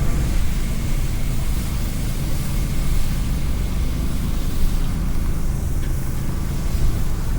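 Steady low hum of motor vehicles running in a snowy street, over an even wash of city noise.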